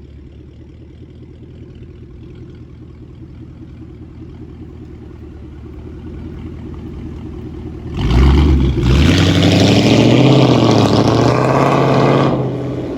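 Ford Mustang Shelby GT500 V8 with a straight-piped Akrapovič exhaust idling, then revved hard about eight seconds in, held up for a few seconds and let fall back near the end.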